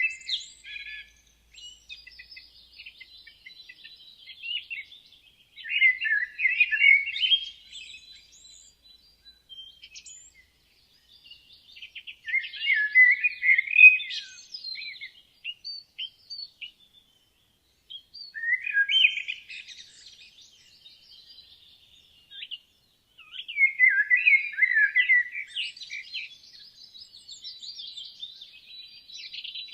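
Woodland songbirds singing: one bird's loud warbling phrases, each about two seconds long, come roughly every six seconds, with fainter high chirps from other birds in between.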